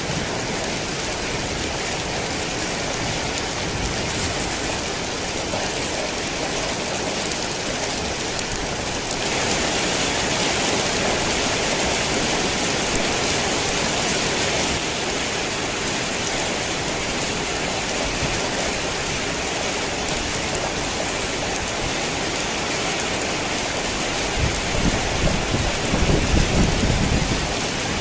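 Heavy rain falling steadily, growing louder and hissier for several seconds about a third of the way in. Near the end a low rumble of thunder rolls in under the rain.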